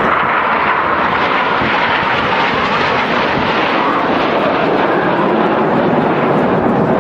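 Steady jet engine noise from BAE Hawk jets flying their display.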